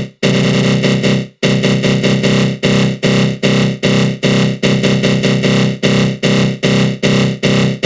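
Synthesized growl sound effect from the GMS synth in FL Studio Mobile, a harsh buzzing tone swept by a flanger. It starts as a couple of longer bursts, then pulses in short even bursts, about two or three a second.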